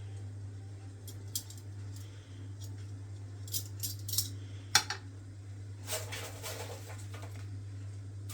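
Dishes and utensils clinking and knocking: a few sharp clinks, the loudest about five seconds in, then a second or so of scraping, over a steady low hum.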